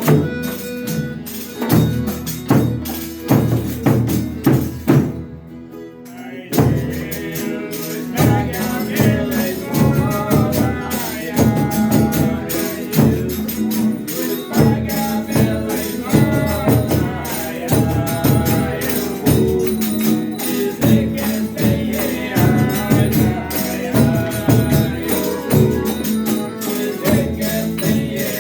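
Folia de Reis music: a rhythmic tambourine-led instrumental beat, which drops away briefly about five seconds in, then a group of voices singing over the tambourine and instruments.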